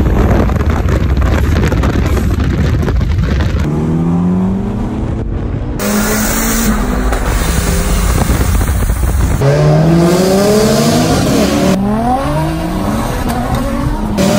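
Car engine accelerating hard, its pitch climbing and dropping again and again as it pulls up through the gears, cut into a string of short clips that change abruptly.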